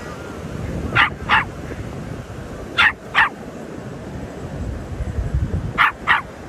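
An animal barking in short pairs of barks, three pairs a couple of seconds apart, over a steady low background rumble.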